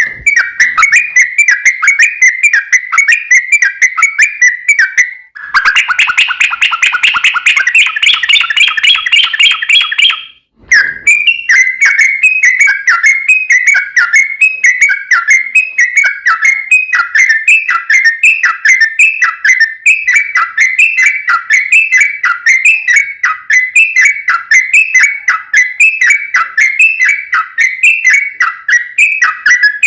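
Yellow-vented bulbul (trucukan) song: loud, rapid chattering phrases repeated without pause. From about five seconds in it runs into a faster, denser trill (the long "ropel"), breaks off briefly near the middle, then returns to quick repeated downward-slurred notes.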